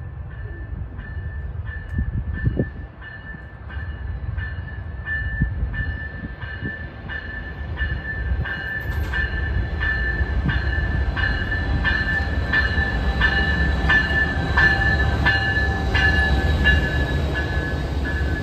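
Diesel-electric passenger train approaching, its locomotive bell ringing steadily at about one and a half strikes a second and growing louder. Under it the rumble of the locomotive and its wheels swells as the train pulls alongside.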